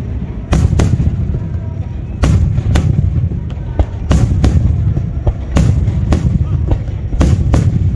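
Japanese aerial firework shells bursting overhead: sharp bangs in quick pairs about every one and a half seconds, over a continuous low rumble.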